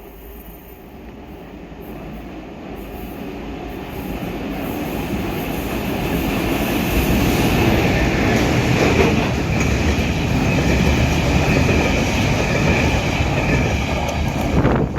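A train approaching and growing steadily louder over the first half, then passing close with a heavy rumble and a high, steady squealing tone from the wheels.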